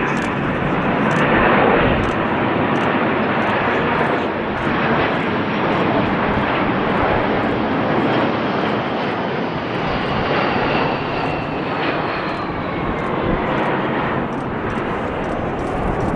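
Jet engines of a three-engined airliner running loudly as a steady, dense rush of noise. A faint high whine slowly falls in pitch through the second half.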